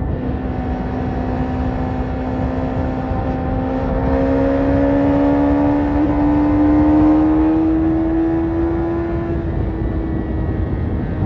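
BMW S1000RR inline-four engine breathing through an Akrapovic carbon exhaust, running with a steady note that climbs slowly for several seconds and then eases off near the end, over a constant rush of noise.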